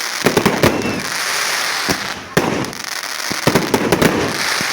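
Fireworks going off: a run of sharp bangs and crackles in quick clusters.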